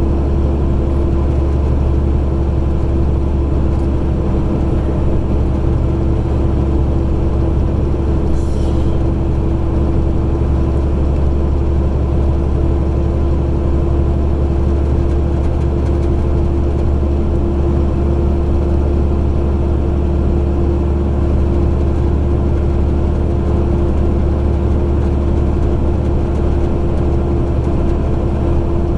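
Semi truck's diesel engine running at a steady cruise, heard from inside the cab along with road noise: a constant low hum with one held tone above it, unchanging throughout.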